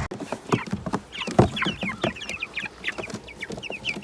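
A flock of young meat chickens cheeping: many short, high, falling calls overlapping. Scattered low knocks, the loudest a thump about a second and a half in.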